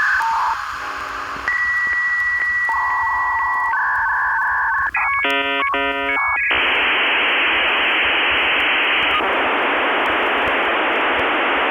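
Electronic sound effect: a run of steady beeping tones at changing pitches and a burst of warbling chirps. About six and a half seconds in, it gives way to a steady static hiss.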